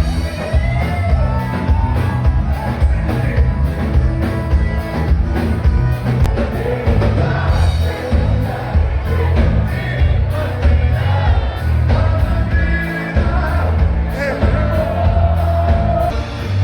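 Live band music with a steady beat: heavy bass, drums with evenly spaced cymbal ticks, and a singing voice.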